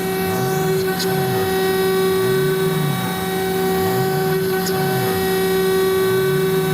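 CNC router spindle turning a 4 mm single-flute carbide end mill at about 22,000 rpm while it mills polyethylene: a loud, steady high hum. Beneath it a low tone swoops up and down about once a second as the machine moves.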